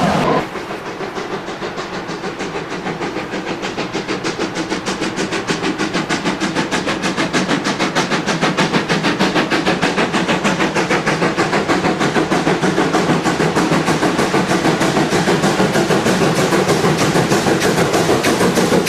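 Steam locomotive working hard, its exhaust beats coming in a rapid, even rhythm that grows steadily louder as it approaches.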